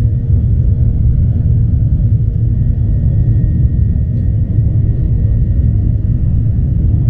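Steady low rumble inside the cabin of a Boeing 737-900ER, the noise of its jet engines and airflow heard from a passenger seat, with a faint steady whine higher up.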